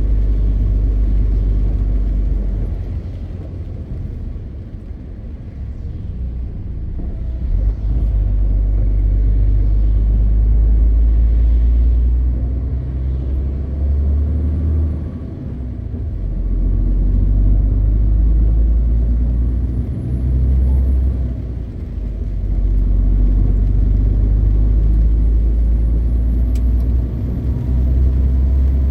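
MAN TGX 520 truck running on the road: a deep, steady engine and road rumble that eases off several times and builds back up. A faint high whistle rises now and then.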